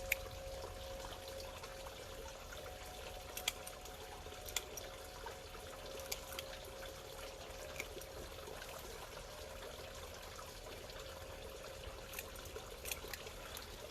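Pond water bubbling and trickling steadily, with a faint steady hum and a few scattered light clicks.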